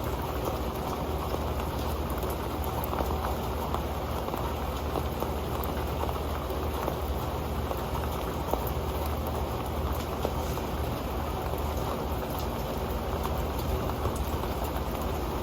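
Steady rain falling on an old metal pan: a dense, even patter with scattered sharper drop hits.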